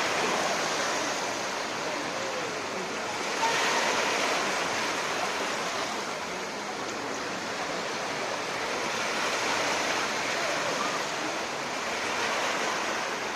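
Black Sea surf washing onto the shore: a steady rush of breaking waves that swells and fades, loudest about four seconds in.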